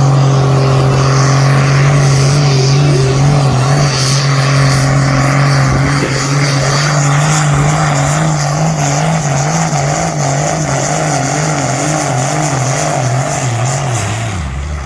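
Engine of a tractor-pull vehicle running hard under load as it drags the weight sledge, a steady loud drone. After about six seconds its pitch starts to waver up and down, and near the end it drops as the engine bogs down and slows.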